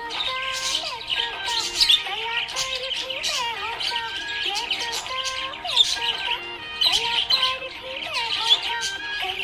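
Budgerigar chirping and warbling in rapid, continuous bursts of chirps, with music playing underneath.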